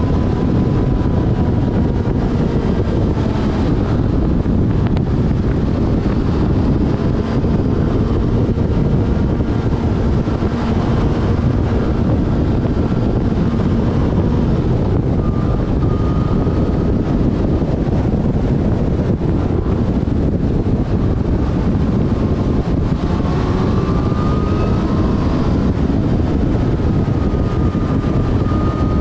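Yamaha FZ6 Fazer S inline-four engine running at road speed, its pitch shifting slightly, under heavy wind rushing over the camera microphone.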